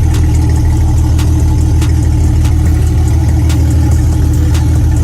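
Swapped-in Nissan VR30 twin-turbo V6 idling steadily with no exhaust system fitted, warming up on one of its first runs. A few faint ticks sit over the even hum.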